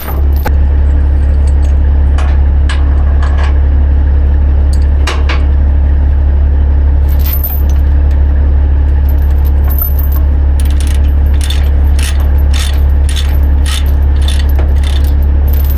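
Steel tie-down chains clinking and rattling against metal while a load is chained down, with a quick run of clinks in the second half, over a steady low drone.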